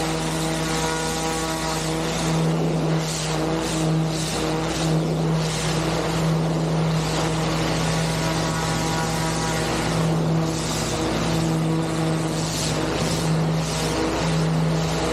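Pressure washing rig running steadily: a constant motor drone with a fluctuating hiss of high-pressure water spray over it.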